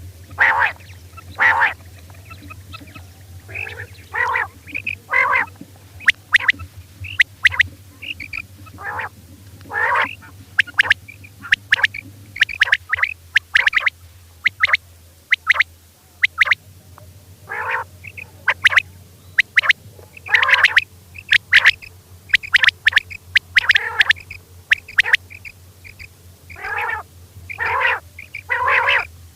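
Female common quail calling: many short, sharp calls, some single and some in quick runs of two or three, at an uneven pace.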